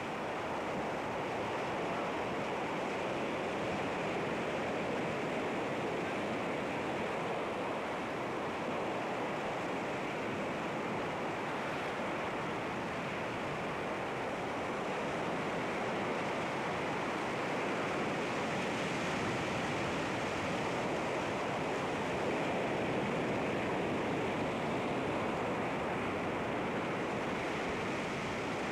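Sea waves washing against rocks, a steady rushing surf that swells and eases gently.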